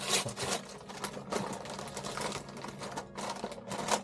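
A bag of Doritos tortilla chips crinkling in irregular bursts as it is handled, the loudest near the start and again near the end.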